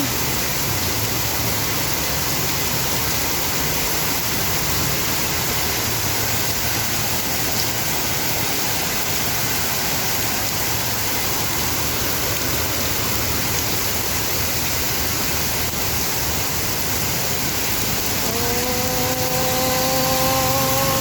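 Heavy rain pouring down in a steady, even hiss. A held pitched tone, rising slightly, joins over the last few seconds.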